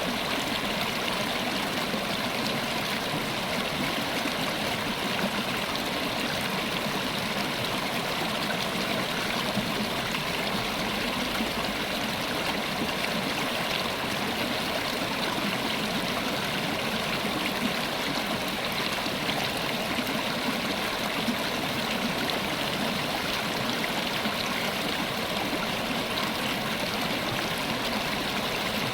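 River water flowing over rocks, a steady rushing and gurgling with no let-up.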